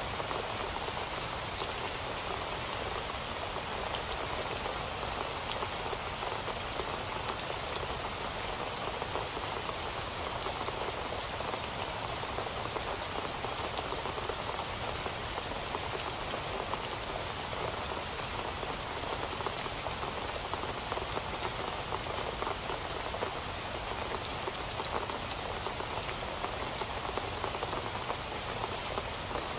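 Steady, even rainfall with individual drops pattering on a surface.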